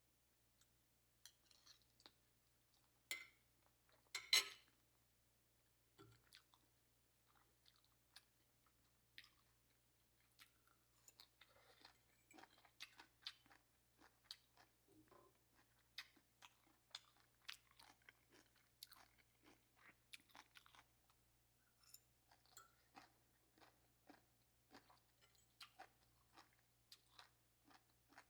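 Quiet sounds of someone eating: soft chewing with many small clicks and taps, about one or two a second. Two sharper clicks come a few seconds in.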